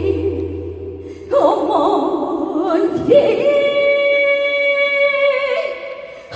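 A woman singing a slow song live with heavy vibrato, then holding one long note for a couple of seconds about halfway through, over a quiet backing.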